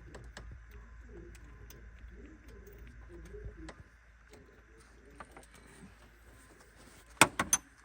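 Faint low cooing sounds for the first few seconds, with scattered light clicks of hand work on a spark plug. Three sharp clicks come close together about seven seconds in.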